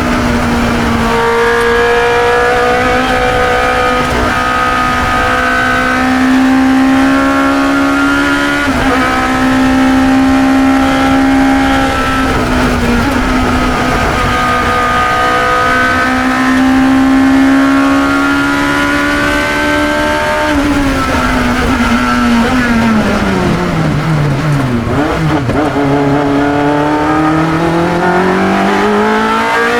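A 1972 Chevron B21 2-litre sports racer's engine, heard onboard at racing speed. It pulls up through the gears, the pitch climbing and dropping sharply at each upshift, several times in the first twenty seconds. About twenty seconds in, it falls away through downshifts as the car brakes for a corner. Then it climbs steadily again under acceleration.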